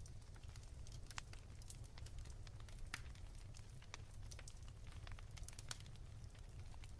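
Wood fire crackling softly, with scattered irregular pops and snaps over a steady low rumble.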